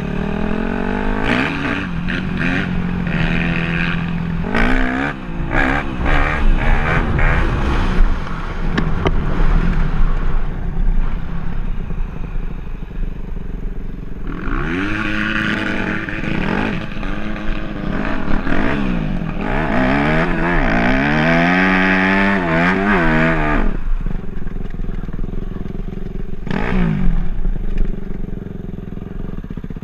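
Dirt bike engine revving up and down again and again, with repeated bursts of throttle; the loudest, highest-revving stretches come a little past the halfway point.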